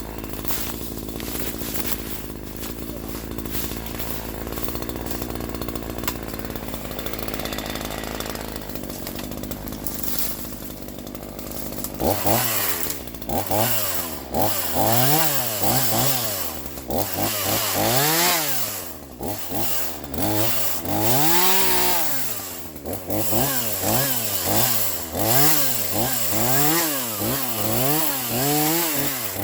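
Troy-Bilt TB4218 42cc two-stroke chainsaw running steadily at low speed, then from about twelve seconds in revving up and dropping back again and again, roughly once a second.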